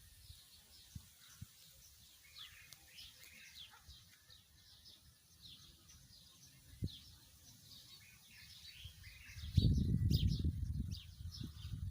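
Many small birds chirping in quick short notes. About three-quarters of the way in, wind starts buffeting the microphone with a low rumble that is louder than the birds.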